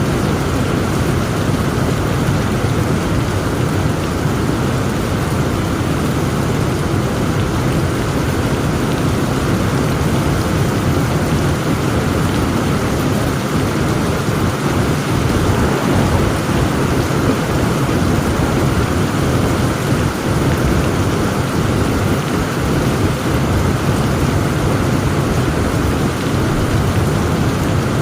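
Heavy rain falling steadily, with thunder rumbling low underneath and no sharp claps.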